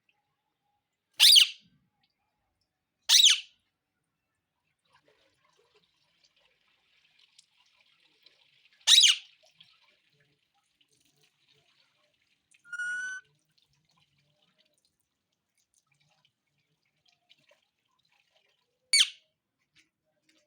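Indian ringneck parrot giving four short, shrill screeches at irregular intervals, with one softer, pitched whistle-like call about two-thirds of the way through.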